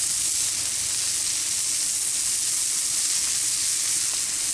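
Ground-beef burger dogs and onions sizzling steadily on a hot Blackstone flat-top griddle.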